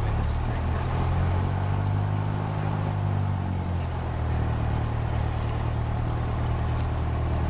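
Light training aircraft's piston engine and propeller running with a steady drone, its pitch shifting slightly in the first few seconds and then holding steady.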